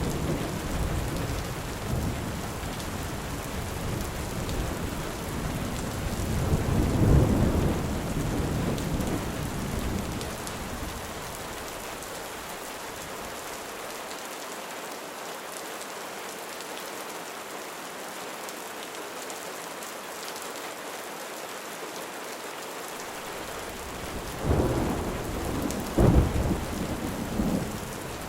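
Steady heavy rain with thunder: a long low rumble that swells and fades over the first ten seconds or so, a stretch of rain alone, then a few sharper claps of thunder close together near the end.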